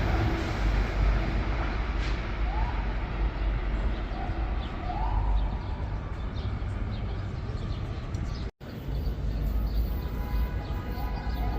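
Metro-North commuter train rumbling along the platform, its noise slowly fading, with a few short rising squeals in the first half. The sound cuts out for an instant about eight and a half seconds in.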